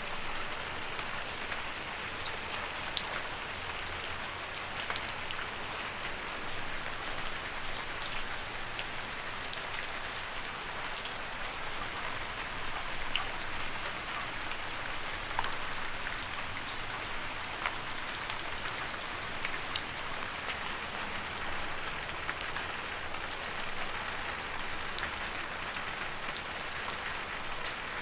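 Steady rain falling, an even hiss with many sharp individual drops pattering on a surface close by.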